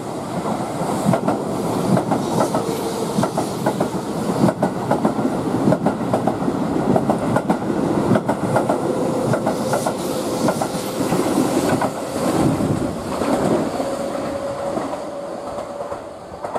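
Keihan 8000-series limited express passing through the station without stopping: a dense clatter of wheels over the rail joints, with a faint steady whine in the second half. The noise drops off at the very end.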